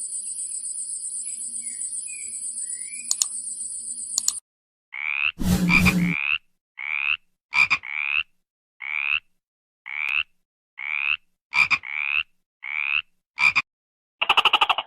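A steady high-pitched drone, like insects buzzing, is cut off about four seconds in. It is followed by a series of short animal calls, each rising in pitch, about one a second, with dead silence between them.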